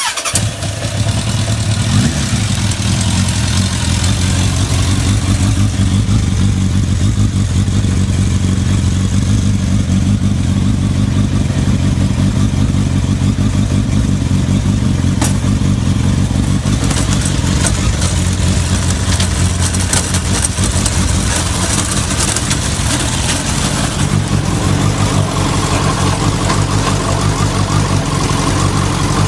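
Suzuki Bandit 1200S inline-four motorcycle engine starting and then running steadily through an aftermarket VEGA sports muffler. Its note shifts a little about 24 seconds in.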